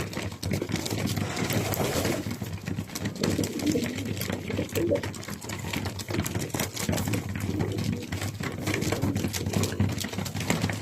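Racing pigeons cooing, with many quick clicks and taps among them.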